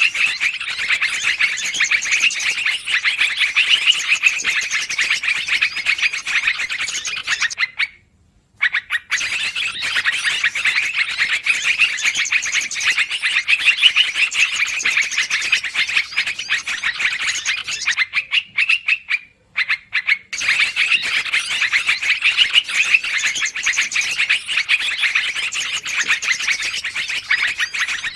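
Yellow-vented bulbuls (trucukan) chattering noisily, a dense, rapid, unbroken stream of calls that pauses briefly twice, about 8 seconds in and again around 19 seconds in.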